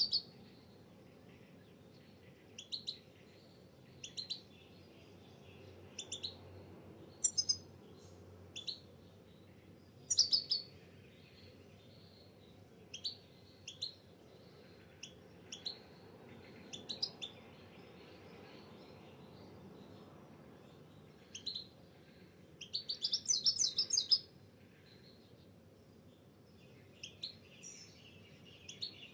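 A small bird chirping: short, sharp chirps every second or two, with a quick burst of rapid chirps about three-quarters of the way through.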